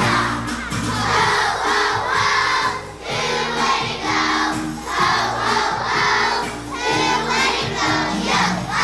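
Children's choir singing a song with instrumental accompaniment and a regular beat.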